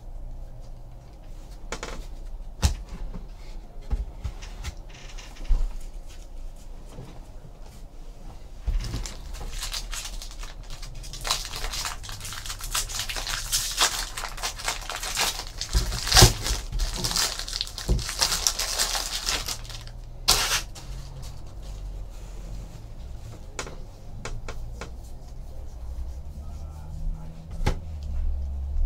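Trading-card packs being opened and cards handled: crinkling and rustling of pack wrappers and cards, busiest in the middle, with scattered clicks and taps on the table.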